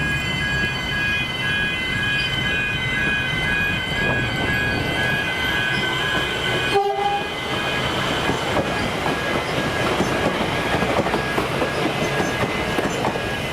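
Melbourne suburban electric train running on the track, with steady high-pitched tones held throughout and a busier rattle and clatter of wheels over the rails in the second half.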